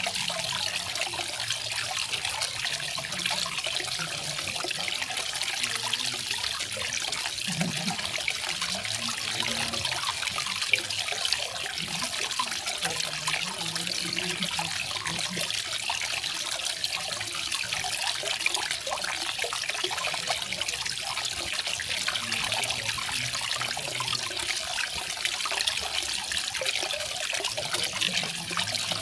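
Garden waterfall: water falling and splashing in a steady, unbroken rush with no pauses.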